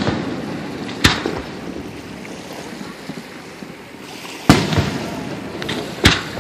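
Aerial fireworks shells bursting: three sharp bangs, about a second in, about four and a half seconds in, and just before the end, each trailing off in a fading rumble.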